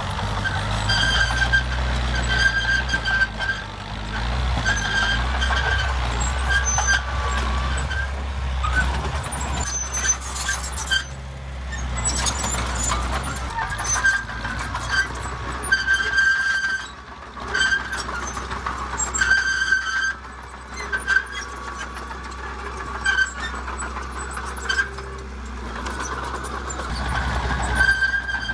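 Heavy construction machine's engine running with a low rumble while its reversing alarm beeps about once a second.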